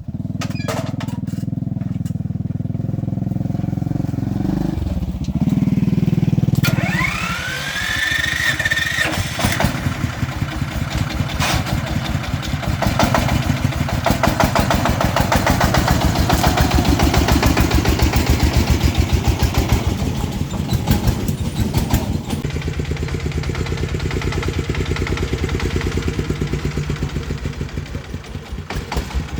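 Farm truck engine running under load. A rising whine comes about seven seconds in, then a loud, fast chugging, which settles to a steadier, quieter run after about twenty seconds.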